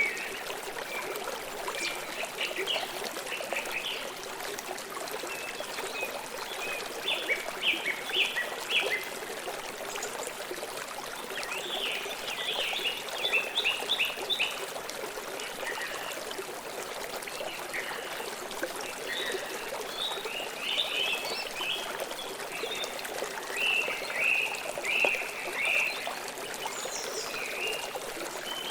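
River water flowing steadily over stones, with small birds chirping in short clusters several times over it.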